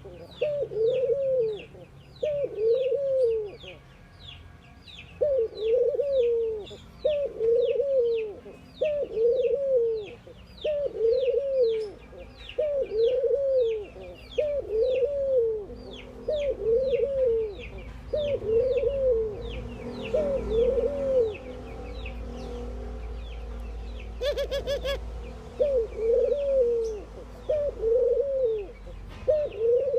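Ring-necked doves cooing: a steady run of short arched coos about one a second, pausing briefly past the middle. Quick high chirps from another bird repeat underneath, and a short rattle of clicks sounds near the end.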